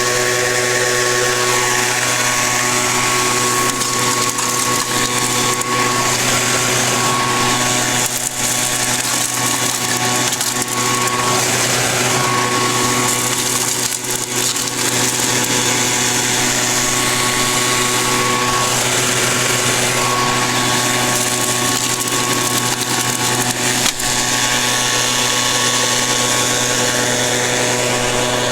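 Small engine running at a steady speed, a continuous drone with a fixed pitch.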